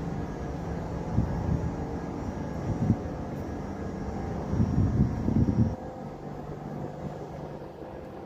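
Frecciarossa 1000 high-speed electric train running, a steady low rumble with a thin high whine. The whine stops and the sound drops quieter about six seconds in, with a few louder gusts before that.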